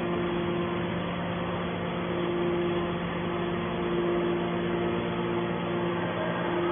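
Hydraulic scrap metal baler press running, its power unit humming steadily at an even pitch.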